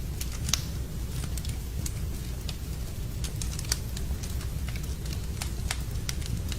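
Wood fire burning in a fireplace: a steady low rumble with frequent sharp crackles and pops, two of them louder, about half a second in and near the middle.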